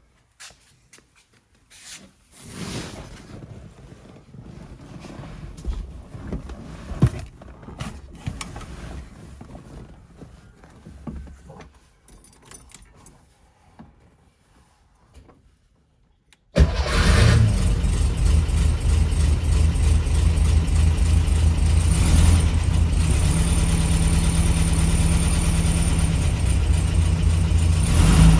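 Quiet clicks and knocks for about sixteen seconds, then the 1971 Karmann Ghia's air-cooled flat-four engine starts abruptly on a cold start and settles into a loud, steady idle.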